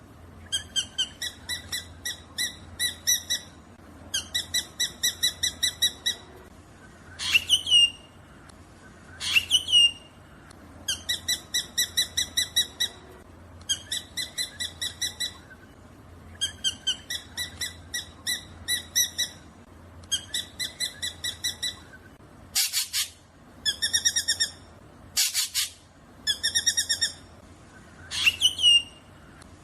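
Black drongo calling: repeated runs of quick, evenly spaced ringing notes, broken by a few sharp swooping whistles and, in the last third, two short harsh rasps.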